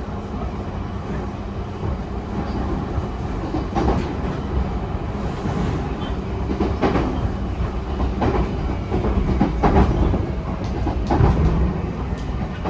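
Running noise of a JR E131-series electric multiple unit heard from inside the passenger car: a steady rumble of wheels on rail, with the wheels clacking over rail joints about five times.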